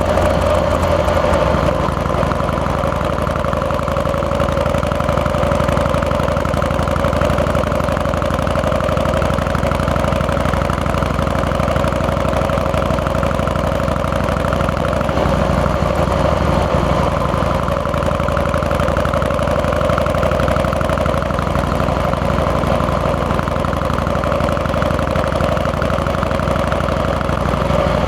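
Harley-Davidson Fat Boy's Twin Cam 88 V-twin engine running at a steady, even engine speed while riding.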